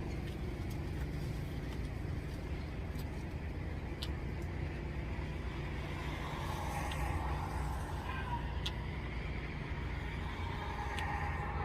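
Steady low rumble like a running vehicle, with a few faint clicks and a faint wavering tone in the second half.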